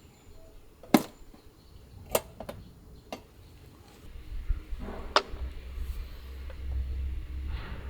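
A handful of sharp clicks and knocks, the loudest about a second in, with a low rumble setting in about halfway through.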